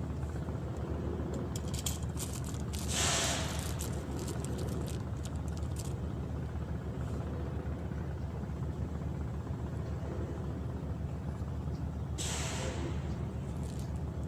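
A steady low mechanical hum of a running engine, with a brief hiss about three seconds in and again near the end, and a few light clicks early on.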